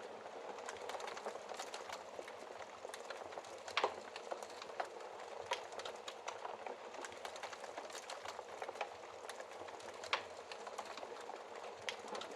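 Wood fire in a fireplace crackling: a steady hiss under irregular snaps and pops, with the sharpest pops about four seconds in and again near ten seconds.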